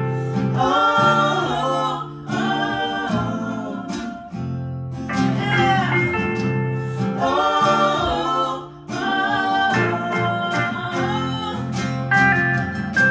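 Live band playing a song: acoustic guitar with sung vocal lines, in phrases of a second or two.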